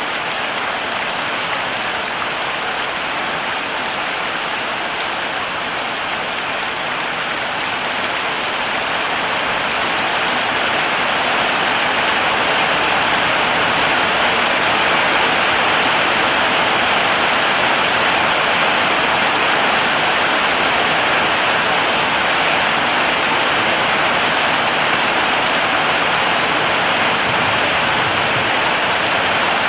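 Heavy rain falling steadily, a dense hiss of drops, growing a little louder about ten seconds in.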